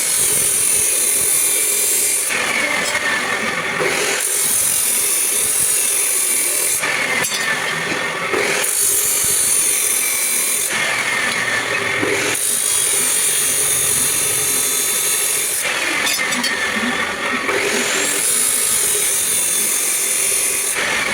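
Power tool cutting metal, running steadily under load. The sound turns brighter and hissier, then duller, in turns every couple of seconds.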